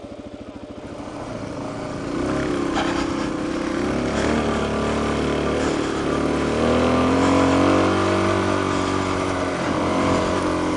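Suzuki DR-Z400's single-cylinder four-stroke engine ticking over, then picking up about a second in and running on with the revs rising and falling as the bike climbs a rocky trail.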